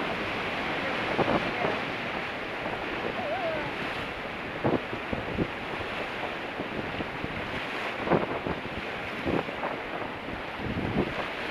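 River rapids: a steady rush of fast-moving whitewater around a raft, with a few brief sharp sounds scattered through.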